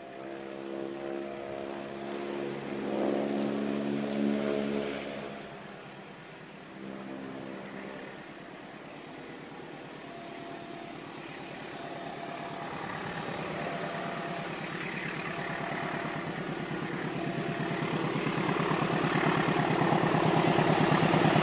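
Diesel locomotive horn sounding a steady multi-tone blast for about five seconds, then the locomotive's engine and the train's wheels on the rails growing steadily louder as the train approaches.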